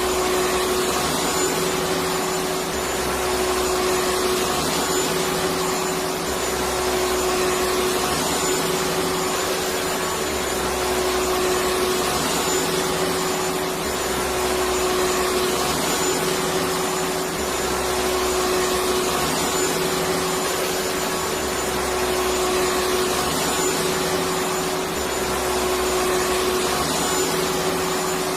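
Vacuum cleaner motor running steadily, a constant whine over a rushing airflow, with a low hum that swells and fades about every two seconds.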